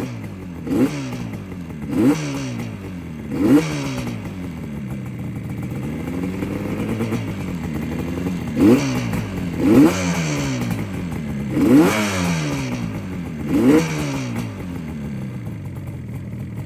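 1976 Yamaha RD400's two-stroke parallel-twin engine idling cold and blipped seven times, each rev rising sharply and dropping back. The choke has just been turned off, maybe a little early, and the revs clear it out.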